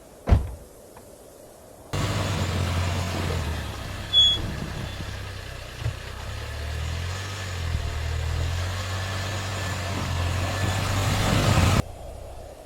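A motor vehicle's engine running steadily with a low hum, cutting in suddenly about two seconds in and stopping abruptly near the end. A sharp thump comes just before it.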